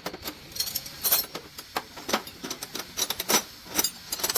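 Metal parts and hand tools clinking and tapping against each other in an irregular run of sharp clicks, as a truck gearbox is worked on.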